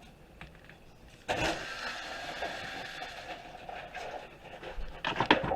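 A small motor starts a steady whir suddenly about a second in and runs for about three seconds, followed by a few sharp knocks near the end.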